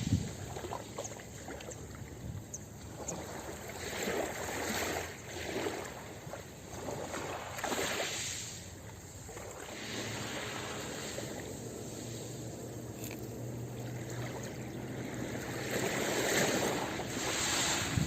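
Ocean surf on a beach, waves breaking and washing up in surges every few seconds, the loudest near the end.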